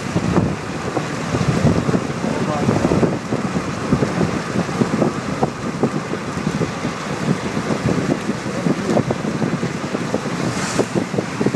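Strong gusty wind buffeting the microphone through an open car window, a loud, rumbling rush.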